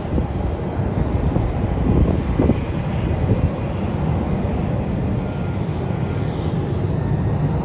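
Jet airliner engines heard across the airfield as a steady, even rumble of noise.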